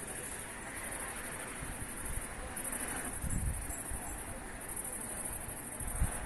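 Steady hiss of rain, with a high, evenly pulsing chirr like insects laid over it and low rumbles of wind on the microphone about halfway through and near the end.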